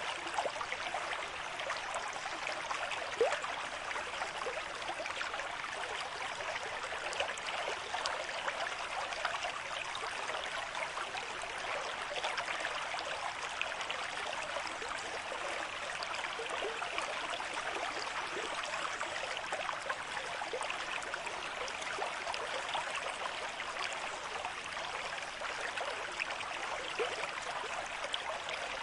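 River stream with moderate flow: water running and gurgling over stones, a steady rushing with fine splashes.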